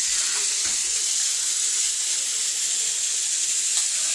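Several battery-powered GeoTrax toy trains running at once, their small motors and gears giving a steady high hiss.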